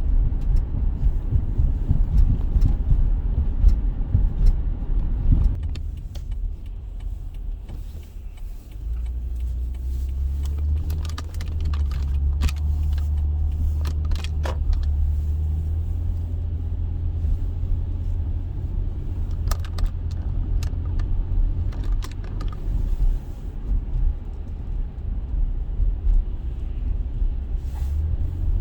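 A steady low rumble with scattered light clicks and rattles. It dips briefly about six to eight seconds in, then settles into a steadier low hum.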